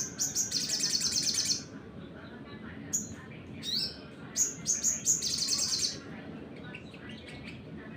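A sogon (sogok ontong), a small nectar-feeding songbird, gives a short rising note and then a fast, high-pitched rattling trill about a second and a half long. It repeats this about four seconds later.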